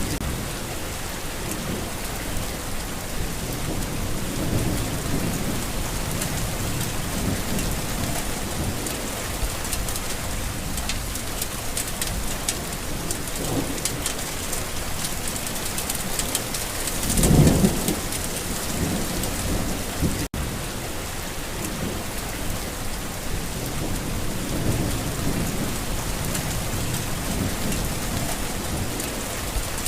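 Steady heavy rain with low rolls of thunder; a louder thunder rumble swells up about two-thirds of the way through. The sound cuts out for a split second just after it.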